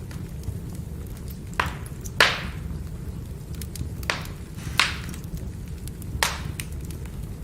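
Firewood burning with a steady low rush of flame and sharp crackles and pops as the wood splits in the heat. There are about five loud pops, the loudest a little over two seconds in, with smaller ticks between them.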